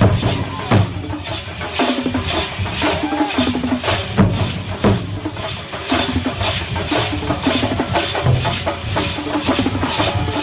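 Thambolam percussion band playing: drums and cymbal-like hits keep a steady fast beat, about two to three strikes a second, under short repeated runs of pitched notes from a melodic instrument.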